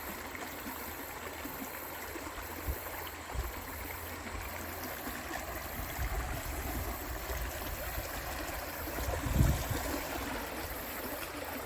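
Creek water running steadily over rocks, a constant rushing noise. A few brief low thumps on the microphone cut through it, the loudest about nine seconds in.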